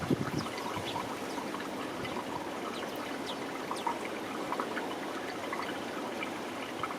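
Small garden birds giving short, scattered chirps and calls over a steady rushing background noise, with a brief low bump at the very start.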